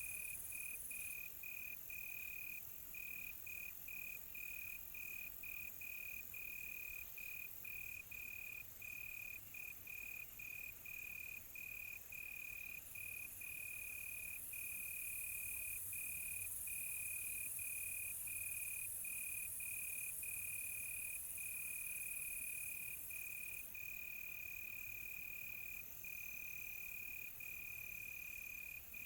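Crickets chirping in a steady, high, continuous trill broken by brief gaps, over a fainter high hiss that swells for several seconds in the middle.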